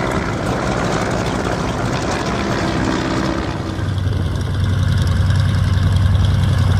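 Propeller aircraft engine running, with a steady low tone that comes up and grows louder about four seconds in.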